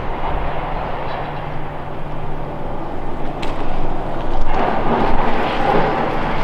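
Steady mechanical rumble with a constant low hum, growing louder and rougher about four and a half seconds in.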